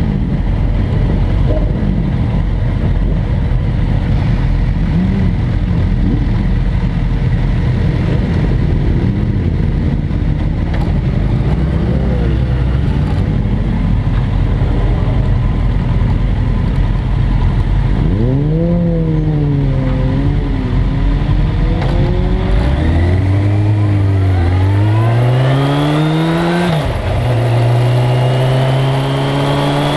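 1997 Suzuki GSX-R1100's inline-four engine heard onboard over heavy wind rumble on the microphone. In the last third the revs rise and fall a few times, then climb steadily through a gear and drop sharply near the end at an upshift before pulling again.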